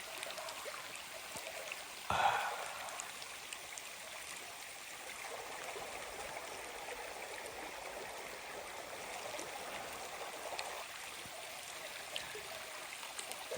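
Gila River water flowing steadily, a constant rushing, with a brief louder sound about two seconds in.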